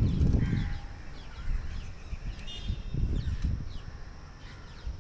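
Wind buffeting the microphone in irregular low gusts, strongest at the start and again about three seconds in, while birds chirp in short falling calls through it.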